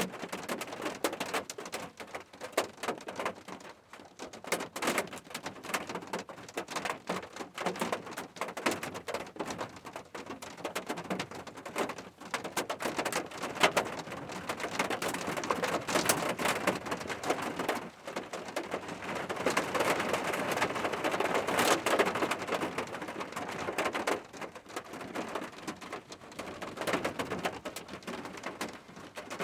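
Rain falling, a dense stream of individual drops striking a surface, heavier in the middle and easing near the end.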